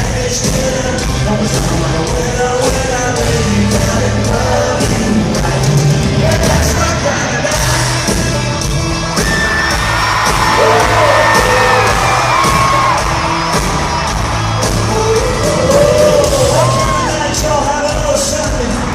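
A live country-rock band playing loudly over a concert sound system, with a male lead voice singing over a steady drum beat and the crowd yelling along.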